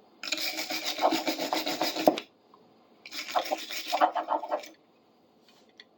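A stiff brush scrubbing rust and grime off an old steel wrench with quick back-and-forth strokes, in two bouts of about two seconds and a second and a half.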